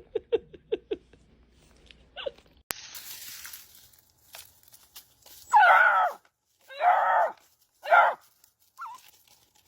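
A dog giving three loud, drawn-out pitched calls, the first two about half a second long and the third shorter, wavering in pitch.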